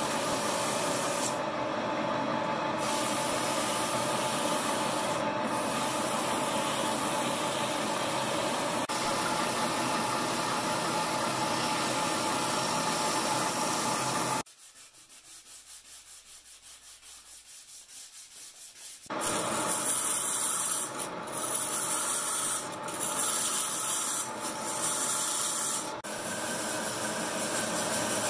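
Sawmill machinery cutting wood, a loud, dense rasping noise that starts suddenly. About halfway through it drops to a quieter pulsing for several seconds, then comes back loud and less even.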